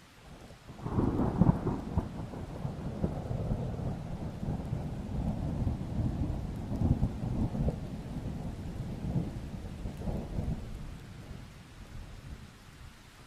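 A peal of thunder breaking about a second in and rolling on as a deep rumble that swells again several times before dying away near the end, over a steady hiss of rain.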